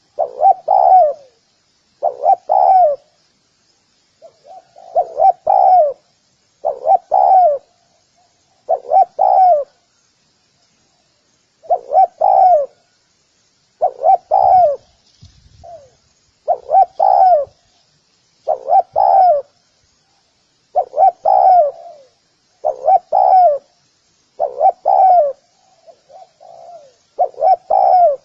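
Spotted dove cooing: a short phrase of a few low, mellow coo notes repeated about every two seconds, with a few softer single notes in between.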